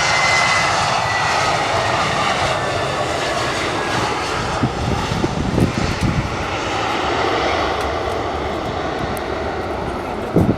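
Airbus A320 airliner's jet engines passing close by: a loud steady roar with a high whine that drops slightly in pitch, loudest at the start and then slowly fading as the aircraft moves away.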